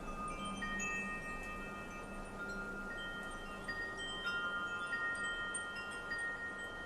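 Wind chimes ringing, several metal tones struck at irregular moments and left to ring on over one another, over a soft hiss of light wind.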